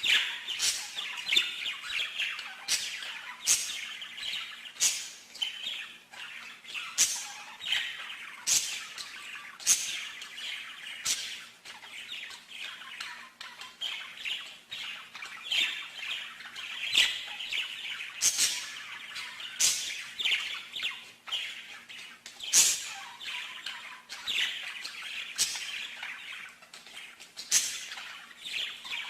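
A small songbird singing continuously: quick sharp chips mixed with trilled phrases, with a faint steady hum underneath.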